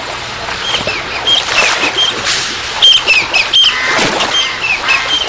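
Birds calling: a string of short, high calls, each dropping in pitch, a few a second, starting about a second in, over a steady outdoor hiss.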